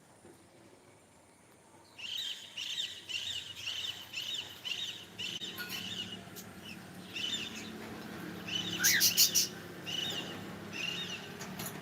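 Cockatiel chirping: after a quiet start, a run of short, repeated chirps begins about two seconds in, two to three a second, with a louder, sharper outburst about nine seconds in.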